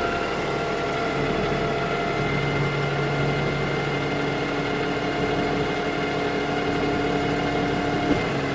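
Cummins ISB six-cylinder diesel running steadily with the PTO-driven hydraulic pump working to raise the dump body, the pump adding steady whining tones over the engine. One of the tones stops with a small click about eight seconds in.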